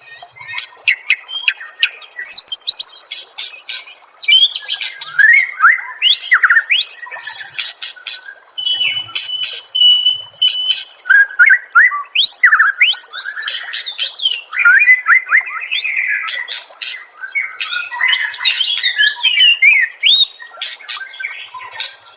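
White-rumped shama (murai batu) in full song: a fast run of varied sweeping whistles, chirps and sharp clicks with hardly a break. A single held whistle comes about halfway through.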